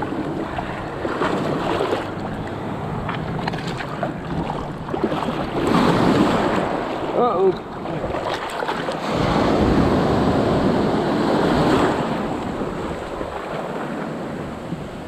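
Ocean surf washing and breaking, with wind buffeting the microphone. The wash surges louder about six seconds in and again for a few seconds from about nine seconds.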